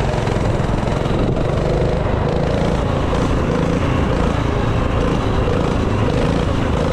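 Dirt bike engine running steadily at a constant speed, with no revving.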